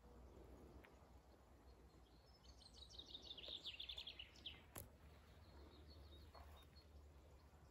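Faint outdoor ambience with a low rumble. A small songbird sings a quick trill of repeated high notes for about two seconds near the middle, followed by a single sharp click.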